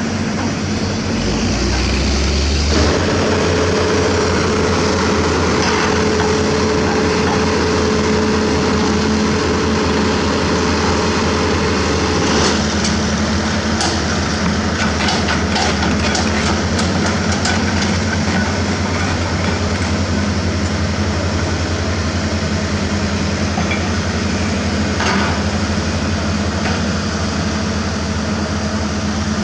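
Hitachi Zaxis 200-5G crawler excavator's Isuzu 4HK1 diesel engine running steadily under work. A higher steady whine sits over it from about three seconds in until about twelve seconds in. A run of sharp metallic knocks and clanks comes around the middle, and one more comes near the end.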